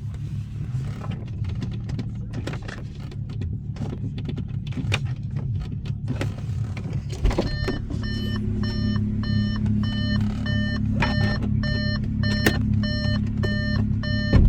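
Audi S5's supercharged V6 idling with a steady low hum, with small clicks early on; about seven seconds in comes a knock, then a multi-tone warning chime repeating about twice a second.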